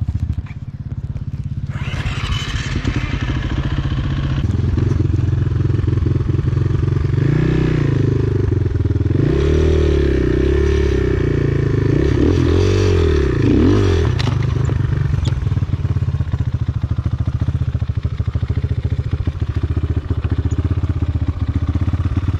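Enduro motorcycle engine running close by, revved up and down several times in the middle.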